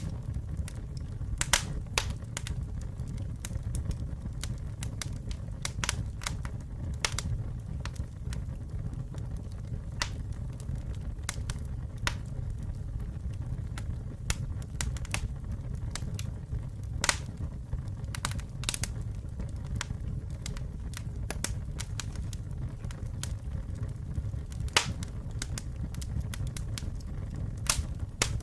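Wood campfire burning: a steady low rumble of flames with sharp crackles and pops at irregular intervals, a few a second at most.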